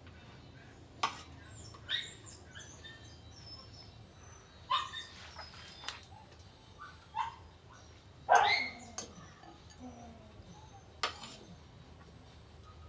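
A dog barking several times, the loudest bark about eight seconds in, falling in pitch. Sharp clicks come between the barks.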